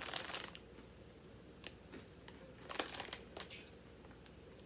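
Faint, scattered crackles and clicks from a snack bag of pretzel sticks being handled, a few short crisp sounds spread over the seconds.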